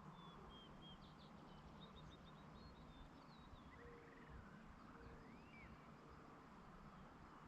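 Faint songbirds chirping and trilling over a low steady background rumble, with a few short, lower, level notes about halfway through.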